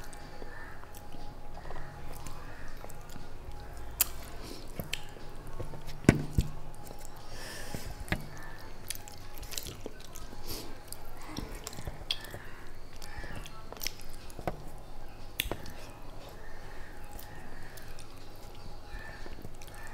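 Close-up chewing and sucking on a cooked catla fish head eaten by hand, with wet mouth sounds and many small clicks. A few sharper clicks stand out, the loudest about six seconds in.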